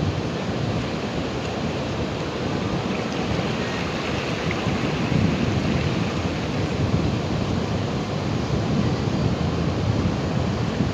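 Ocean surf: waves washing in as a steady, deep rush with small swells in loudness.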